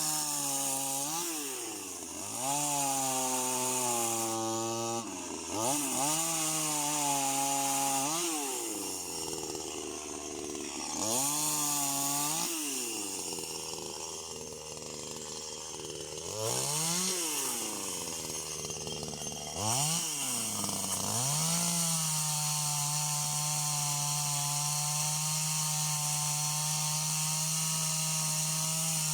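Chainsaw engine revved up and let back down to idle again and again. About three quarters of the way through it is held at high, steady revs.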